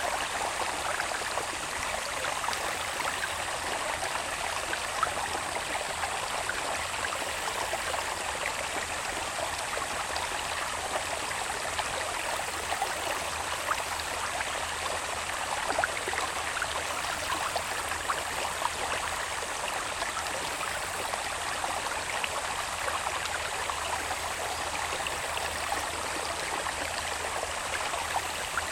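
A small irrigation-channel stream babbling steadily, with a dense patter of tiny splashes. A faint, thin, steady high tone from insects in the grass runs above it.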